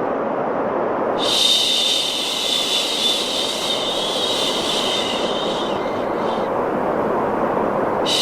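A long 'shhh' shush for a baby over steady white noise. The shush starts about a second in, holds for about five seconds, fades out, and a new one begins at the very end.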